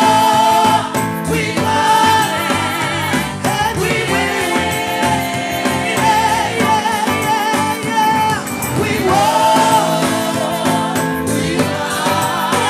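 Gospel worship music: singers holding long, wavering sung notes over a full band, with no break.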